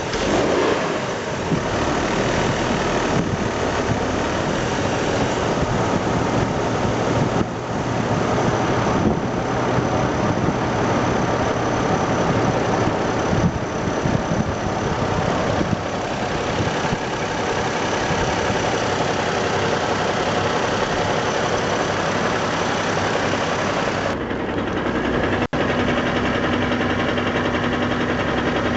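Engine of a 2004 Chevrolet Trailblazer running with a rough, vibrating sound, which the owner takes for possibly bad motor mounts. Near the end the sound changes and a steady low hum comes in.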